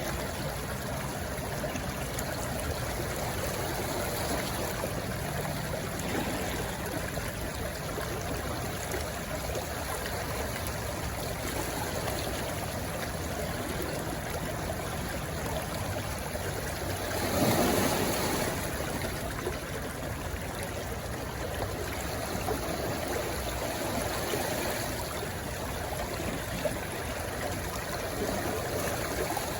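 Stream rushing and gurgling steadily over rocks where it runs into the sea, with one louder surge of water about two-thirds of the way through.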